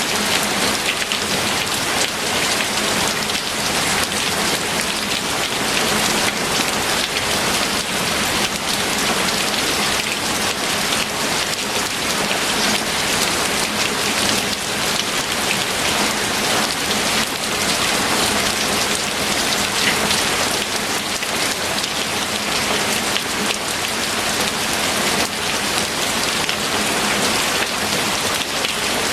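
Steady heavy rain falling, a dense even hiss of drops with fine patter.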